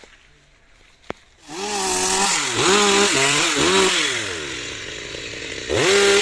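Two-stroke Stihl chainsaw coming in suddenly about a second and a half in and being revved in repeated rising and falling blips. It drops back toward idle for a while, then revs hard again near the end.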